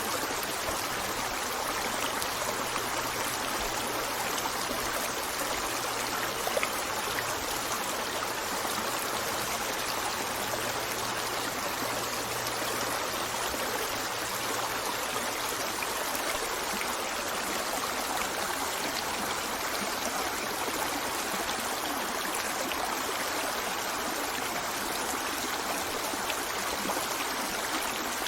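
Running water of a stream flowing steadily, a continuous even rush.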